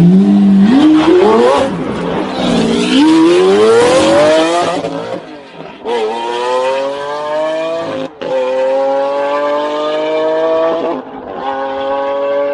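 Supercar engine revved hard twice, pitch climbing each time, then accelerating through the gears: long rising pulls broken by quick upshifts about eight and eleven seconds in.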